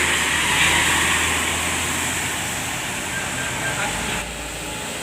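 Road traffic: the steady engine and tyre noise of passing vehicles, easing off about four seconds in.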